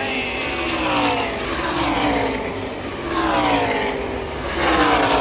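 NASCAR Truck Series race trucks' V8 engines passing at full racing speed, one after another. Each engine note drops in pitch as it goes by, in a continuous roar.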